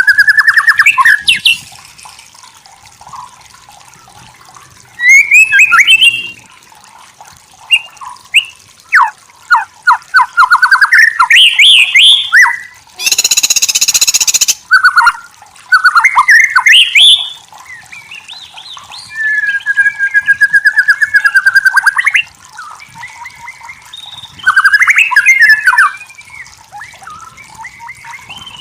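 White-rumped shama singing: a long run of loud, varied whistled phrases, quick trills and rising and falling notes, broken by short pauses. About halfway through there is a harsh, rasping burst about a second and a half long.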